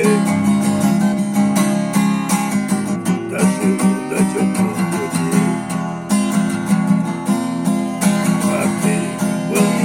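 Acoustic guitar strumming chords steadily in an instrumental break of a song, with no singing.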